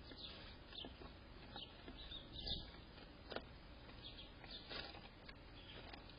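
Small birds chirping faintly: short, scattered chirps at an irregular pace, the loudest about halfway through.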